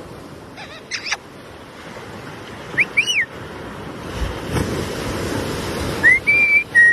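Pet parrot giving short rising-and-falling chirps, once about a second in and again about three seconds in, then clear held whistles near the end. Under the calls is a steady rushing noise that swells in the middle.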